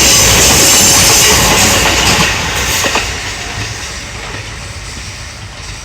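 Kintetsu Kyoto Line train passing close by, its wheels rumbling over the rails, loud at first and then fading away from about two and a half seconds in.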